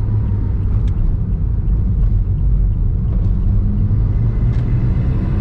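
Honda S660's small turbocharged three-cylinder engine running with tyre and road noise while the car is driven, a steady low drone heard from on board.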